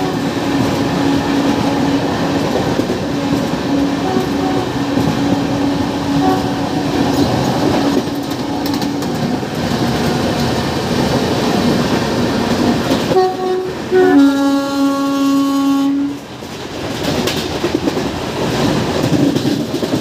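Indian train running at speed, a steady rumble and rattle of wheels on track with a faint steady hum while another train passes alongside. About 13 seconds in, a train horn sounds: a short higher note, then a lower note held for about two seconds.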